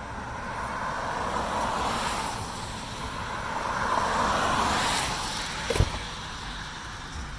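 Road traffic: cars passing one after another, their tyre and engine noise swelling and fading twice. There is a single sharp knock a little before six seconds in.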